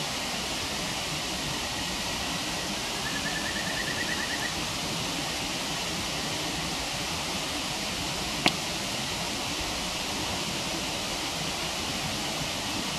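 Waterfall rushing steadily, with one sharp crack from the burning wood fire about eight seconds in. A brief rapid high trill sounds near the start.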